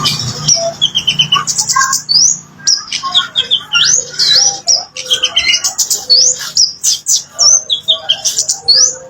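Kemade bird singing: a busy, unbroken run of chattering trills and quick rising whistles.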